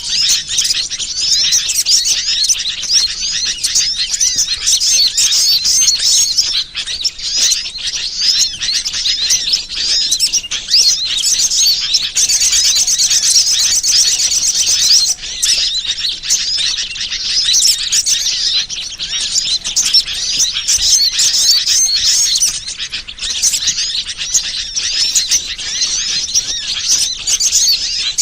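Bird-lure recording: dense, continuous high-pitched chirping and twittering of small birds, overlapping calls with no pause, turning into a faster, more even trill from about 12 to 15 seconds in.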